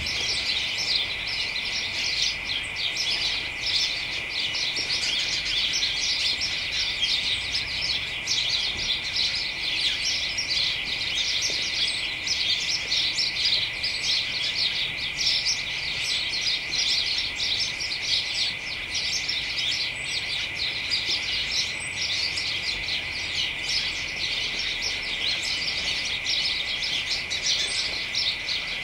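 A flock of house sparrows chattering in a hedge: many short chirps overlapping without a break. A steady high whine runs underneath.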